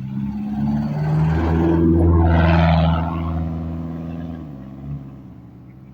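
A 4WD's engine driving past close by on sand: it grows louder, peaks about two to three seconds in, then fades away, with the engine pitch stepping as it goes.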